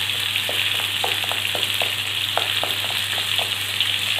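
Ground dried chili paste and aromatics sizzling steadily in hot oil in a wok, with scattered short wet pops.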